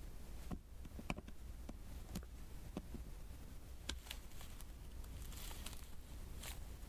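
Diamond painting: small resin gems tapped one at a time onto a sticky adhesive canvas with the drill pen, a string of light, irregular clicks with a soft sticky rustle between them.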